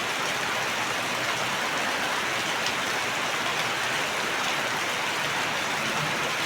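Steady, even rain falling, a dense hiss of drops with no breaks or thunder.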